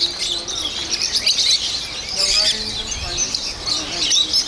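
A flock of lovebirds chattering: a dense, unbroken run of short high chirps from many birds at once.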